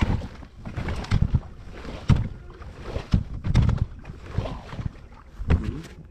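Water slapping and knocking against a small boat's hull in irregular splashes and low thumps.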